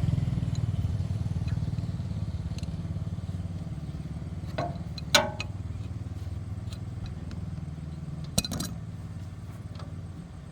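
Car engine running with a low, even pulse. It is loudest at the start, slowly eases off and fades away near the end. Sharp knocks come about five and eight seconds in.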